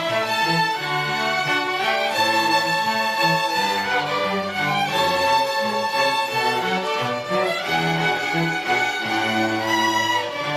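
Elementary school orchestra playing, violins carrying the tune over a moving bass line.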